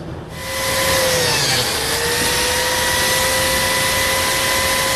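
Biscuit joiner motor starting up and running with a steady whine. The pitch sags briefly about a second and a half in as the blade cuts into the wood, then recovers.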